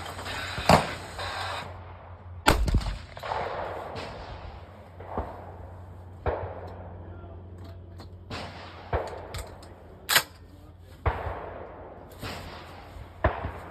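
Gunshots fired at a shooting range, about ten sharp reports at irregular intervals, each followed by a short echoing tail.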